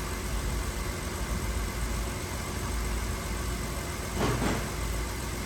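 BMW 325i's inline-six idling with a misfire, caused by a failed ignition coil that now sits on cylinder 1. A short swish is heard about four seconds in.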